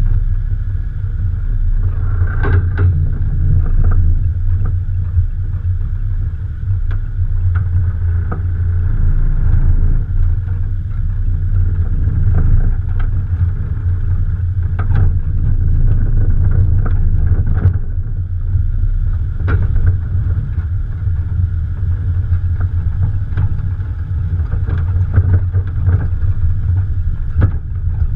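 Morgan Plus 4's Ford 2.0-litre engine running as the car drives, heard from a camera on the bonnet: a steady low drone with short clicks and knocks scattered throughout.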